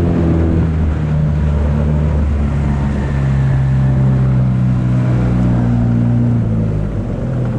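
5 hp Yamaha two-stroke outboard motor running steadily at full throttle, heard from aboard the small aluminium boat it is pushing.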